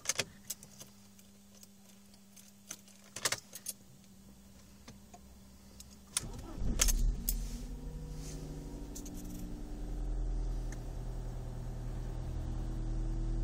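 Car keys jingle and click in the ignition over a faint steady hum. About six seconds in, a BMW N42B18 1.8-litre four-cylinder petrol engine cranks briefly, catches and settles into a cold idle around 1000 rpm, its pitch rising slightly toward the end.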